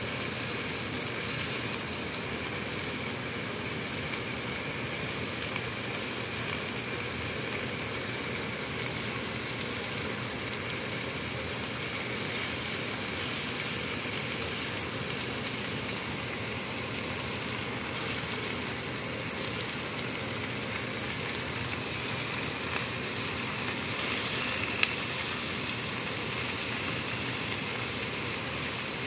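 Chicken breast, green bell pepper and onion sizzling steadily in sesame oil in a nonstick pan, with an occasional faint click and one sharper click near the end.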